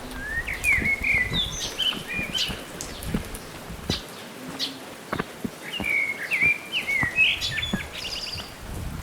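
A songbird sings two phrases of quick, varied whistled notes, one near the start and one about six seconds in, over scattered short clicks and a low rumble.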